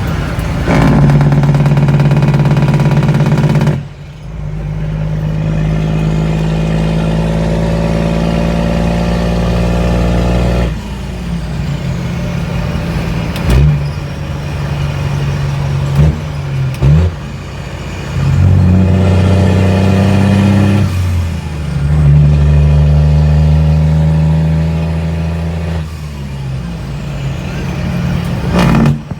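N14 Cummins inline-six diesel with a straight-pipe exhaust, running loud under load. The engine note steps between loud pulls and quieter stretches several times, with a few short sharp cracks around the middle.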